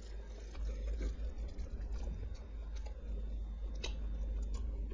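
Close-miked eating sounds: chewing and wet mouth noises with scattered small clicks, over a steady low hum.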